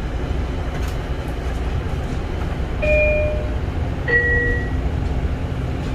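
Kawasaki M9 railcar under way, its wheels and motors giving a steady low rumble. About three seconds in, a two-note falling chime sounds, the second note about a second after the first: the chime that comes before an onboard announcement.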